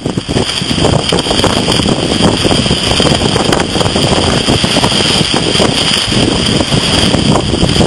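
Strong hurricane wind buffeting the microphone in constant gusts, over heavy surf.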